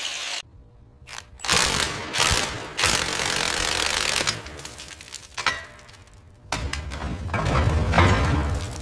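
Workshop tool and metal mechanism noise in a string of short bursts that start and stop abruptly, as if separate clips were cut together. The loudest run comes in the last two seconds.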